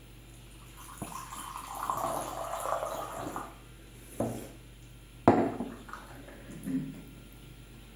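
Water running or being poured for about two seconds, then two knocks, the second one sharper and louder, and a softer clunk near the end.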